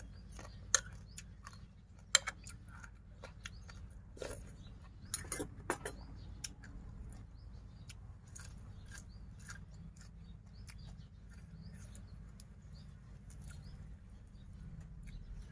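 Close-up chewing and crunching of spicy papaya-style seaweed salad with crisp raw vegetables, with many short sharp clicks. They come thickly for the first six seconds or so, then sparser, over a low steady hum.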